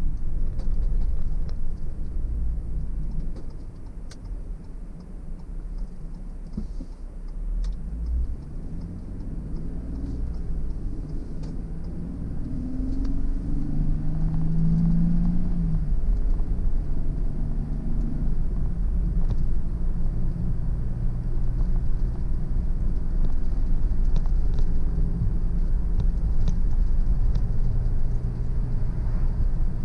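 Car driving on a road: a low engine and tyre rumble that eases off for a few seconds, then builds again from about twelve seconds in, with the engine note coming up as the car picks up speed.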